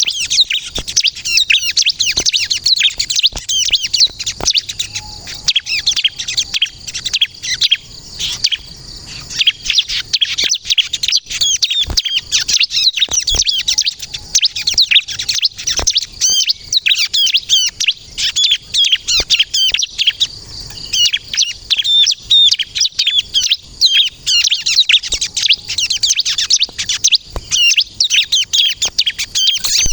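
Ciblek kristal (a prinia) singing vigorously: a dense, unbroken stream of fast, high-pitched chirps and trills, with scattered short clicks.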